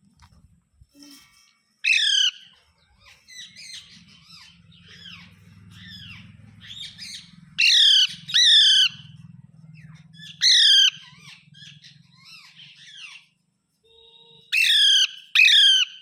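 Rose-ringed parakeet giving loud, harsh screeches, six in all, each one short and falling in pitch, the last two close together near the end. Quieter chattering calls run between them through the middle.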